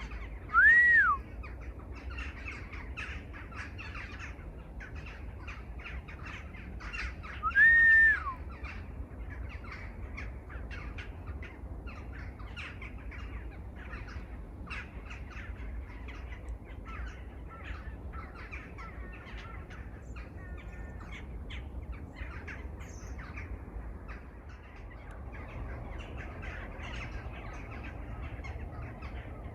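Many birds calling and chirping together. Two loud clear calls rise and fall in pitch, one about a second in and one about eight seconds in, over a steady low rumble.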